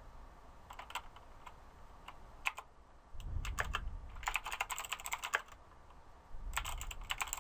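Typing on a computer keyboard: a few scattered keystrokes, then two fast runs of key clicks, the first and longer about three seconds in, the second near the end.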